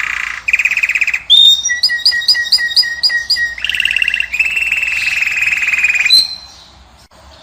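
European goldfinch song: a fast buzzy trill, then a run of about eight crisp repeated notes, then a long buzzy trill that ends about six seconds in.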